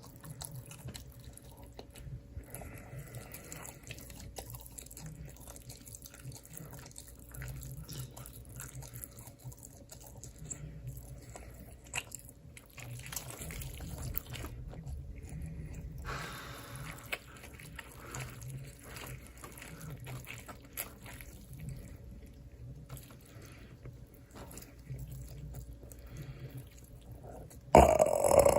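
Close-miked mukbang eating sounds: wet chewing, biting and mouth smacks, with a sudden louder sound near the end.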